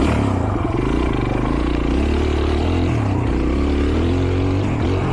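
Small pit bike engine running, its pitch rising and falling several times with the throttle.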